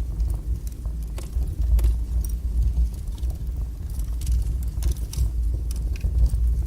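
Wood fire burning strongly in a fireplace: a fluctuating low rumble of the flames with frequent sharp crackles and pops.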